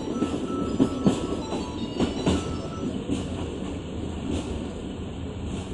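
Train wheels running on the track, with sharp knocks at irregular intervals over a steady rumble as they cross rail joints. A thin wheel squeal is heard in the first few seconds.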